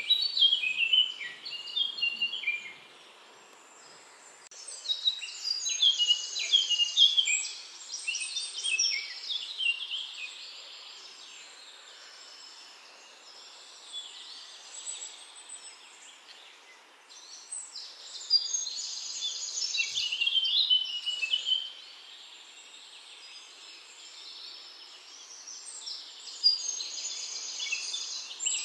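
A bird singing in repeated bouts of rapid chirping and trilling phrases, with quieter gaps between the bouts.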